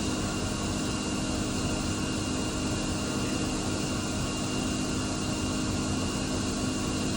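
Steady machine hum and hiss, with a couple of constant tones, unbroken throughout.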